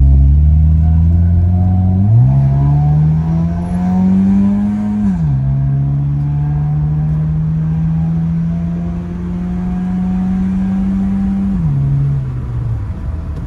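Car engine and exhaust note pulling up in pitch about two seconds in, peaking and dropping back near five seconds, holding a steady note, then falling off near the end.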